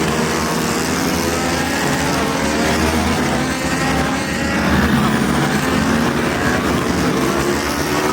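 A pack of racing superbikes running at high revs together, many engine notes overlapping and rising and falling as they accelerate.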